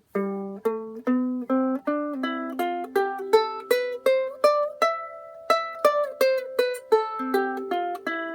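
Soprano ukulele picked note by note as a tune, about two to three plucked notes a second, each ringing briefly before the next.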